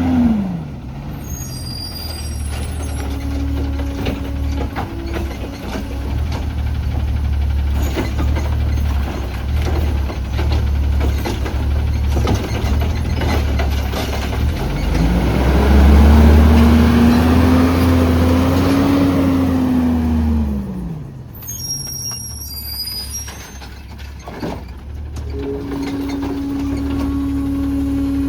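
CNG Autocar ACX garbage truck's engine running steadily, speeding up about midway for around six seconds and then dropping back. Air brakes give a brief hiss with a squeak a little later.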